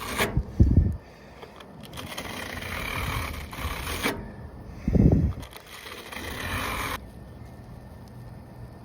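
Evaporator coil cleaner being sprayed onto an RV air conditioner's evaporator coil: two spells of hissing spray that start and stop abruptly, with a low thump near the start and another about halfway through.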